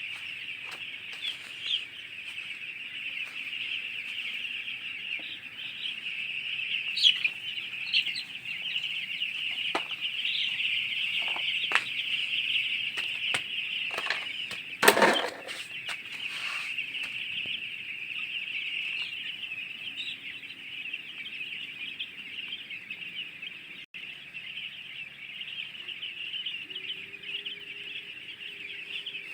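Desi chickens clucking with scattered wing flaps and scratching, over a steady high-pitched background chorus. About halfway through there is one loud, sudden flurry.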